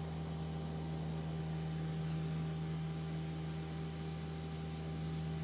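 Piper Aztec's twin piston engines and propellers droning steadily in flight, heard as an even low hum under a constant hiss.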